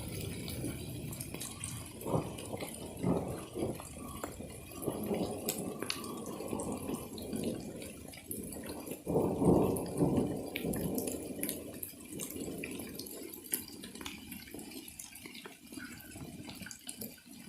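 Rain and hail falling, a steady patter and dripping with many scattered sharp ticks of stones and drops striking. Low rushing swells come and go, the loudest about nine seconds in.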